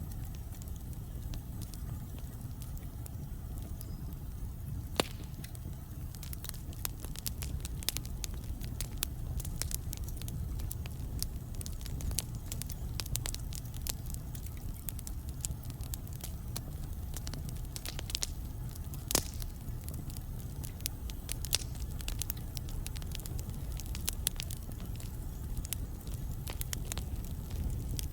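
Wood fire burning in a fireplace: a steady low rumble of flame with frequent sharp crackles and pops from the logs, a couple of them louder, about 5 and 19 seconds in.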